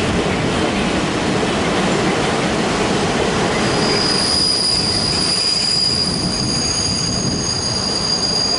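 Freight train wagons rolling past with a steady rumble and rattle of wheels on track; about halfway through, the wheels begin squealing with several high, steady tones.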